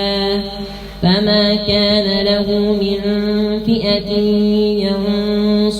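A man's voice reciting the Quran in melodic tajweed style, drawing out long sustained notes. A new phrase starts strongly about a second in.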